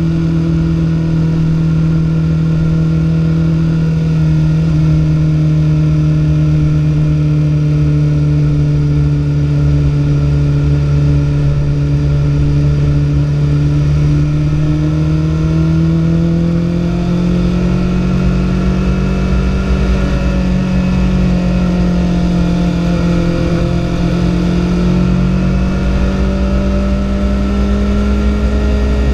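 BMW S1000RR's inline-four engine running steadily under way, recorded on board the bike. Its note sags slightly, then the revs rise a little about two-thirds of the way through and hold.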